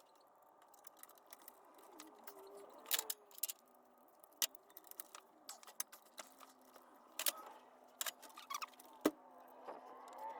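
Scattered light metallic clicks, clinks and taps from hand tools and engine parts being handled during timing-chain teardown, with a faint steady hum underneath.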